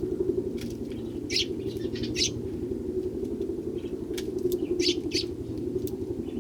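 Eurasian tree sparrows chirping: short high chirps in a few small clusters, over a steady low hum.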